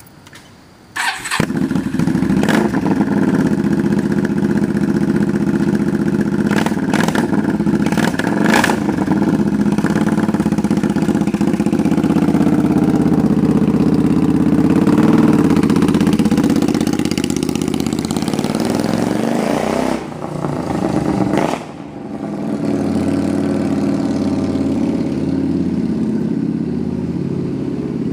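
A 1997 Suzuki Marauder VZ800 V-twin, fitted with Hard Krome Kicker pipes with the baffles in, starts about a second in. It runs loud, blipped on the throttle several times, and then settles to a steady idle.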